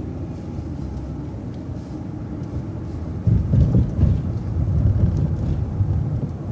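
Transit bus on the move: a low engine and road rumble that grows louder and rougher about three seconds in, then settles again near the end.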